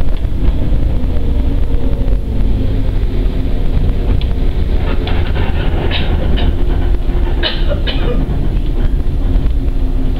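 Shinano Railway electric train heard from inside a carriage as it runs slowly along a station platform while pulling in: a steady low rumble of wheels on rail with a few short high squeals about halfway through.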